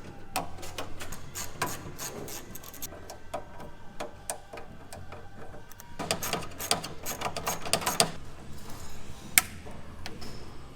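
Bursts of rapid, irregular clicks and knocks, with one sharp knock near the end, over a steady low hum.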